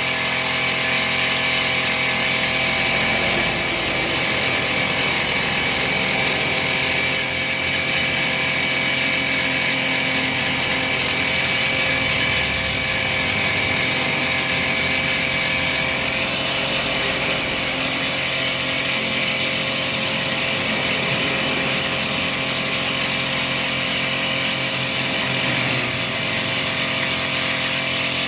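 Small petrol engine of a mini pressure washer running steadily at constant speed.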